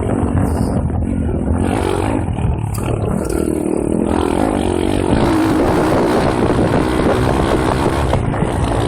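M2R KX140 pit bike's 140cc single-cylinder engine running under way, its pitch climbing as it revs up about halfway through, then held at the higher speed.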